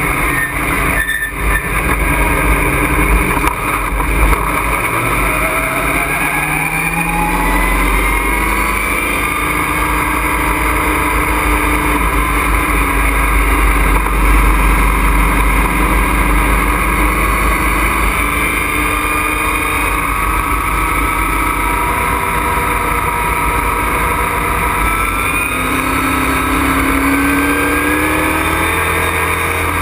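Race truck's engine running hard, heard from inside the cockpit, with wind and road noise. The engine pitch climbs as the truck accelerates, once a few seconds in and again near the end.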